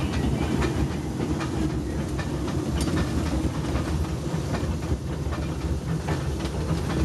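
Train rolling along the track: a steady low rumble with irregular clicks of wheels over the rails.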